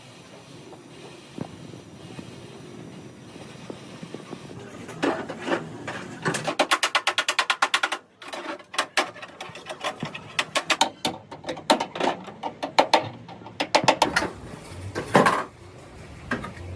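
Sharp knocking strikes that start about five seconds in. They come in a fast even run of about nine a second for a second and a half, then at irregular intervals.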